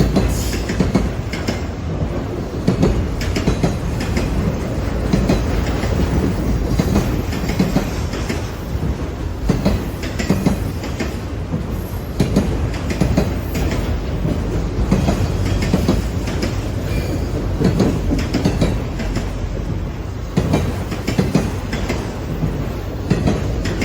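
A train passing close by: a steady rumble of rolling cars with frequent clacks of the wheels over rail joints.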